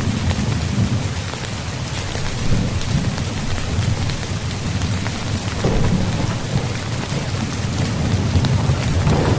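Rain falling on a tent, a steady patter of fine drop ticks over a continuous low rumble.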